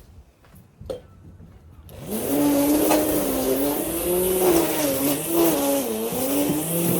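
Lawn mower engine starting up after a short lull with a single click, then running loud, its pitch wavering up and down as it works through the grass.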